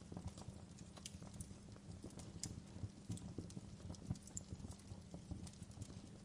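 Wood fire crackling: irregular pops and snaps over the low steady rumble of the burning logs.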